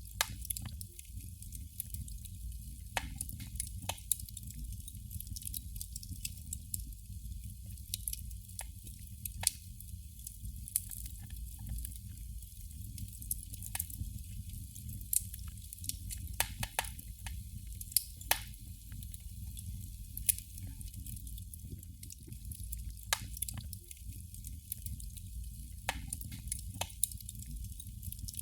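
Candle flame crackling: irregular small sharp pops and ticks, a few of them louder, over a steady low rumble.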